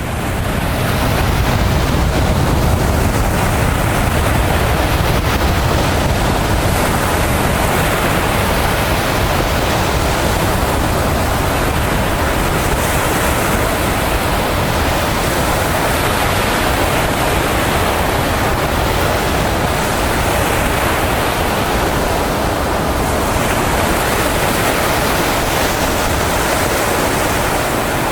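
Sea surf washing on the shore with wind, a loud, steady rush of noise.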